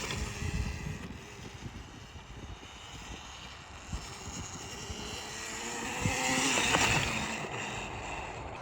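Small dirt bike engine buzzing faintly, then revving up and getting louder about six seconds in before easing off.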